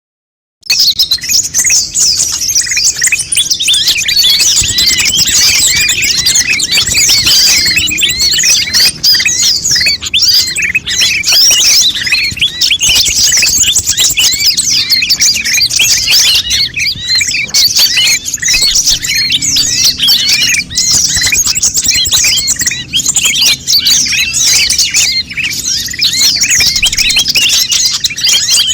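Konin birds chattering noisily: a dense, continuous stream of rapid high chirps and twitters from several birds overlapping, starting just under a second in. This is a lure ('pikat') recording meant to draw wild konin in and set caged ones singing.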